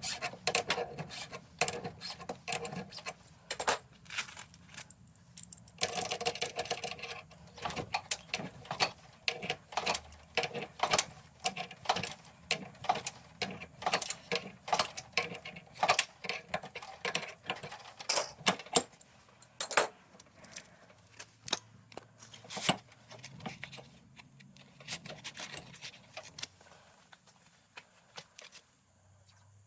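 Irregular clicks, clinks and knocks of hand tools and parts being handled while an air conditioner is taken apart, with a brief scraping rustle about six seconds in.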